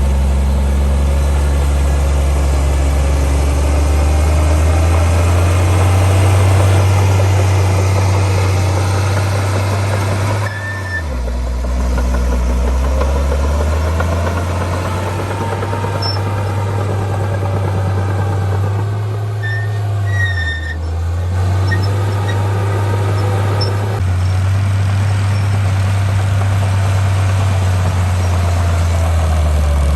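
Heavy earthmoving machine's diesel engine running, a deep steady drone that drops and picks up in engine speed a few times, about a third of the way in and again about two-thirds in.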